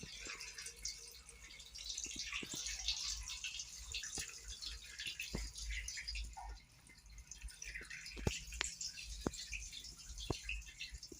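Water dripping from a leak in an Ariston water heater: single drips falling at an uneven pace, over a steady hiss.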